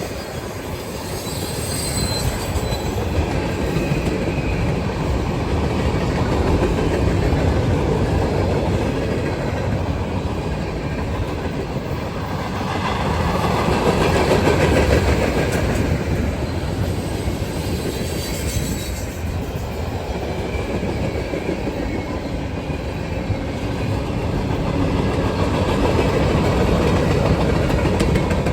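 Freight train cars rolling past, wheels clacking over the rail joints with a steady rumble. A high, thin wheel squeal cuts in briefly near the start and again about two-thirds of the way through.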